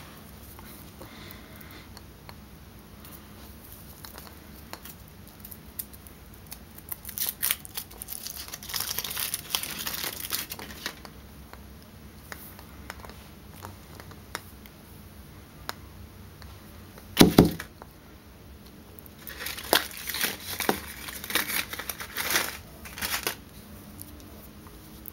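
Foil wrapper of a Kinder Surprise egg being torn open and crinkled, in two spells of rustling. Between them comes a single loud knock.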